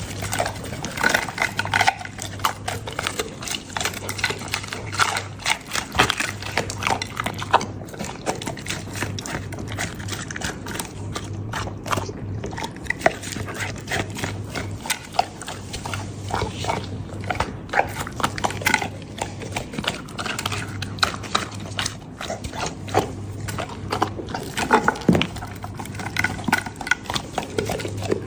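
A Labrador eating a raw-food meal: steady, irregular chewing and crunching of bones and meat, with wet mouth smacks, continuing throughout.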